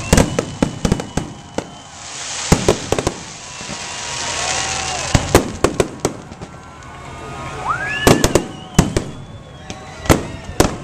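Fireworks display: aerial shells bursting in rapid sharp bangs, coming in quick clusters, with a stretch of hissing crackle in the middle.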